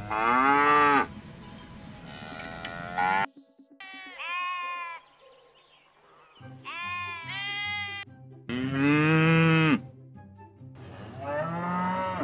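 Farm animals calling: about seven long calls, each about a second, some low-pitched and some higher, rising then falling in pitch, over faint background music.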